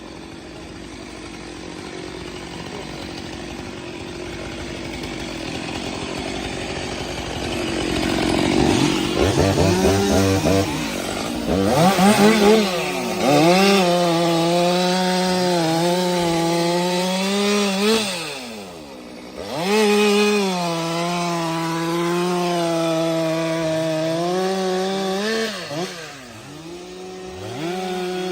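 STIHL MS 462 C-M chainsaw's two-stroke engine revving and cutting through firewood, growing louder over the first several seconds. The revs rise and fall as the chain bites, dropping off briefly twice before picking up again.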